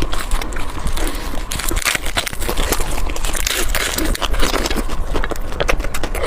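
Close-miked chewing and crunching of food, a dense run of crisp clicks over a low rumble.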